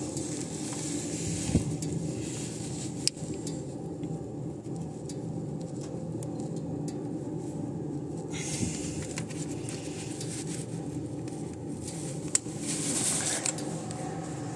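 A warm 1995 VW T4's 2.0-litre ACU four-cylinder petrol engine idling steadily at operating temperature, with a few sharp clicks as the wiring beside it is handled.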